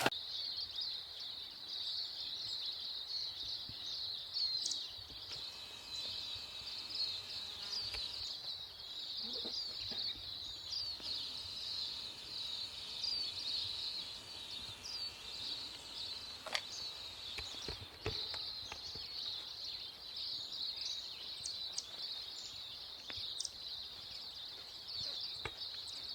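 A steady, high-pitched insect chorus, with a few faint scattered clicks and chirps above it.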